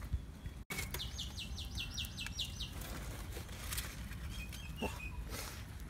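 A small bird singing a quick run of about ten short, falling high notes, followed a couple of seconds later by a few fainter chirps, over a steady low outdoor background.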